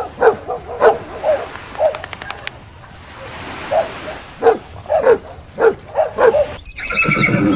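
A dog barking: about a dozen short, sharp barks with a brief lull in the middle. Near the end a different, denser sound takes over.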